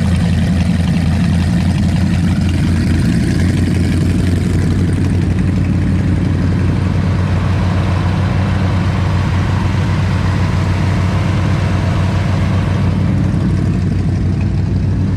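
A large engine idling steadily, a deep even drone that holds the same speed throughout.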